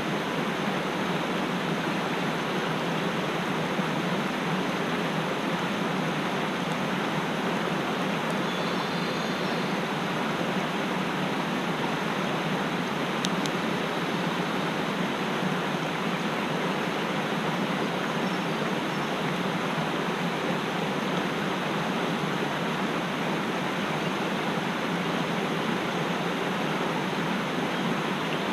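Mountain stream rushing steadily over rocks, a constant full water sound with no change in level.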